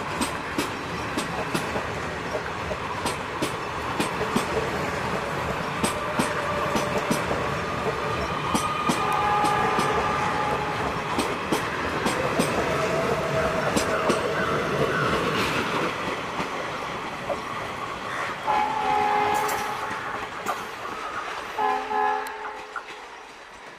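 Express passenger train coaches running past at speed, the wheels clattering over rail joints in quick, rapid clicks over a steady rumble. A train horn sounds in long blasts from about nine seconds in and again twice near the end, as the sound fades away.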